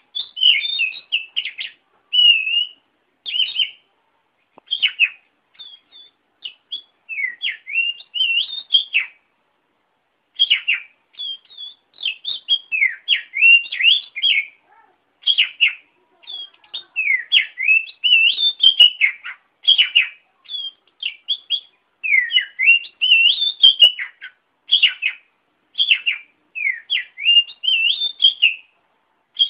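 Oriental magpie-robin (kacer) singing a rapid, varied song of short whistled notes, up-and-down sweeps and chirps, in phrases broken by brief pauses, one of about a second roughly a third of the way in.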